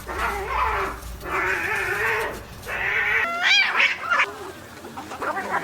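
A cat yowling in long, drawn-out growling cries, three in a row, then a shorter, higher wavering cry about three and a half seconds in.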